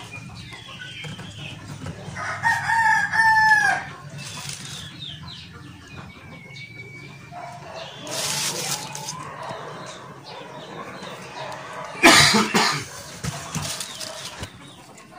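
A rooster crows once, a held call that drops in pitch at the end, about two and a half seconds in, with fainter chicken calls around it. A loud, short rustling knock comes about twelve seconds in.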